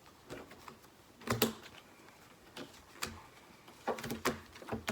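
Dutch Blitz playing cards being flipped and snapped down onto a table in quick, irregular clicks and slaps, the loudest a little over a second in.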